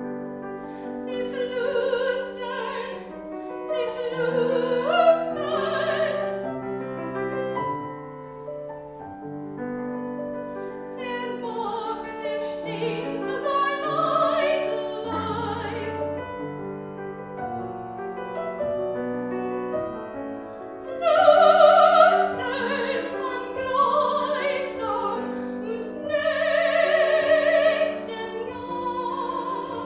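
A classical singer singing in an operatic style with vibrato, in phrases of a few seconds, accompanied by piano.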